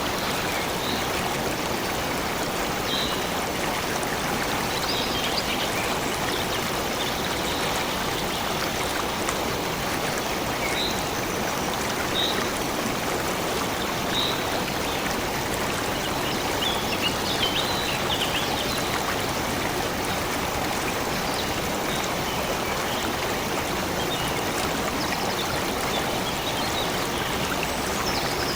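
A stream of water flowing steadily, with short high bird chirps now and then over it.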